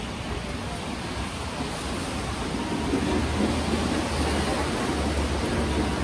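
Steady rain, an even hiss with a low rumble underneath, growing a little louder about halfway through.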